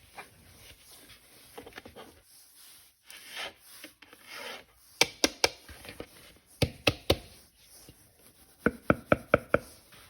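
Plastic toy parts being handled: rubbing and scraping, then three runs of sharp plastic clicks, the last a quick series of about six.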